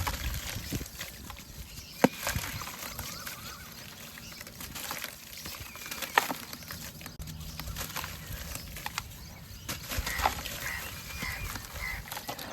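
White cement pieces crumbling in water: a steady crackling with sharp snaps about two, six and ten seconds in.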